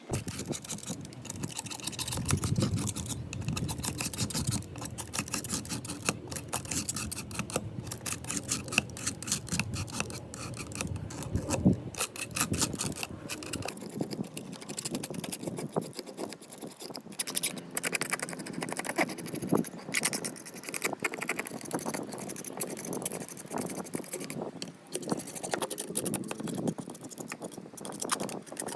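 Rapid hand scrubbing and scraping strokes with small clinks and rattles, as of parts being cleaned or worked by hand.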